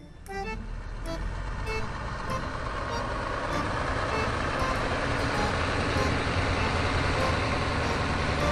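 A truck engine running with a steady low rumble, building up over the first couple of seconds and then holding level.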